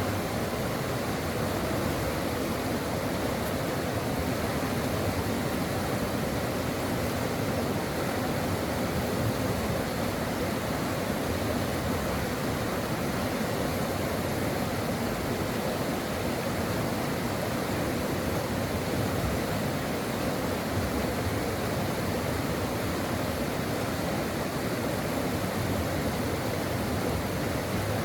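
A stream flowing, a steady, unbroken rush of running water.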